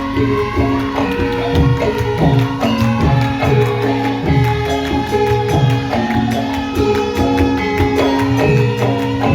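Traditional Javanese gamelan music playing steadily, with held metallophone notes over a busy rhythm of hand-drum strokes, some of them falling in pitch.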